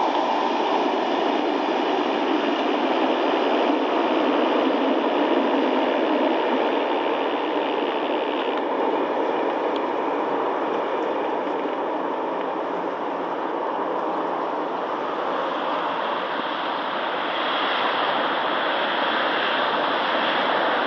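Steady, even rushing noise of trains running on the line: a freight train pulling away, then a train approaching from a distance. No distinct wheel clatter or horn.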